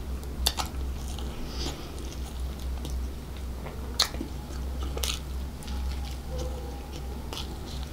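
Close-miked chewing and biting into a soft hot dog in a bun, with wet mouth sounds and a few sharp smacking clicks. A steady low hum runs underneath.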